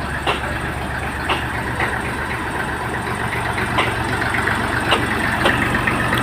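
Tractor diesel engine running steadily at low revs, with a low hum and scattered sharp clicks or knocks over it.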